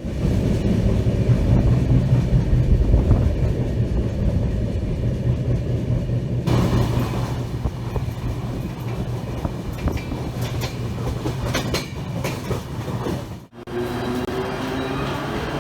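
Passenger train running on the rails: a steady low rumble, with scattered clicks of the wheels over rail joints in the second part. The sound changes abruptly about six seconds in and drops out for a moment near the end, after which a slowly rising whine comes in.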